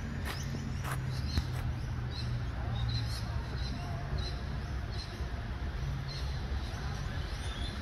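Outdoor ambience: small birds chirping in short high notes, about twice a second through the middle, over a steady low rumble.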